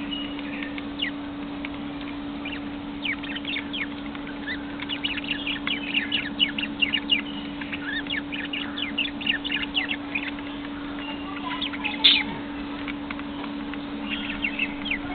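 Pet lovebirds chattering: rapid, shrill chirps that come thickest in the middle, with one louder shriek about twelve seconds in. A steady low hum runs underneath.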